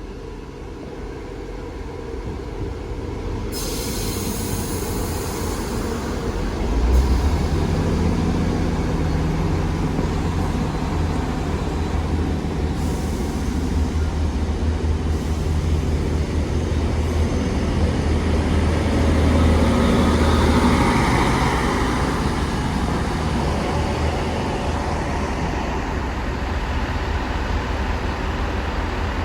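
A Class 158 coupled to a Class 156 diesel multiple unit departing, its diesel engines running under load with a steady low rumble and wheels on the rails. The sound builds over the first seven seconds and then stays loud.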